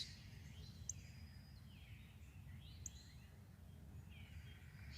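Faint birdsong: a few scattered short high chirps and downward-sliding notes over a low steady background rumble.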